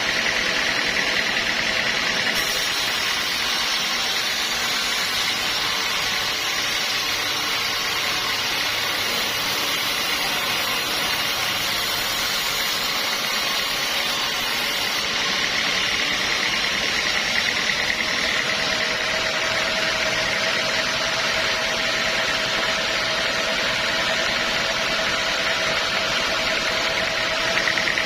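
Sawmill machinery running steadily: a constant mechanical noise with a high-pitched whine that swells and fades a few times.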